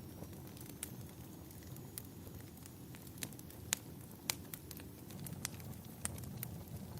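Wood fire crackling in a fireplace: sharp pops scattered through it, the two loudest a little past halfway, over a steady low rumble.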